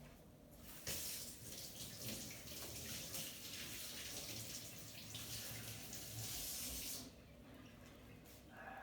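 Water running from a tap while hands are washed under it. It starts about a second in and is turned off about seven seconds in.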